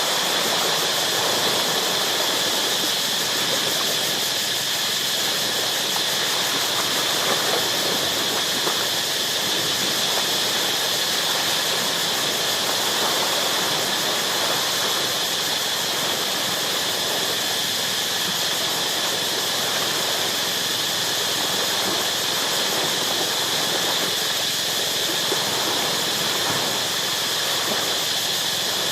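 A steady chorus of tropical insects, several constant high-pitched drones held without a break, over the even wash of ocean surf on rocks.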